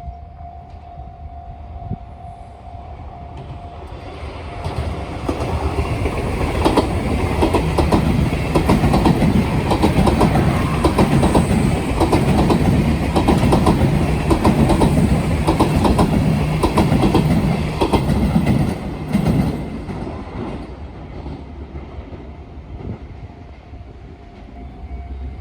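A Sotetsu train passes over the rail joints of a turnout. A loud, rapid clickety-clack of wheels striking the joints builds up from about four seconds in and runs for roughly fifteen seconds, then fades as the train moves away.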